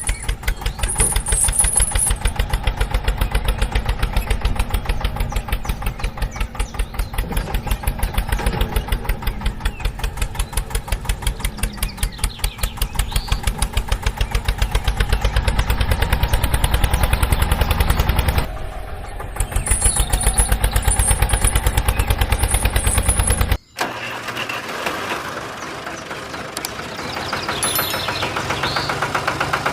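Engine running with a rapid, steady chugging, like a tractor engine, cut off sharply about 23 seconds in, then running on more quietly.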